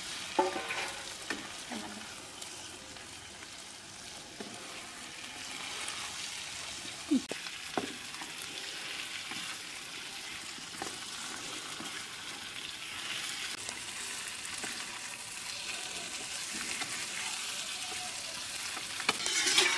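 Boiled potato pieces frying in hot spiced mustard oil in a kadhai over a wood fire: a steady sizzle as they are stirred with a spatula, with a few sharp clicks now and then.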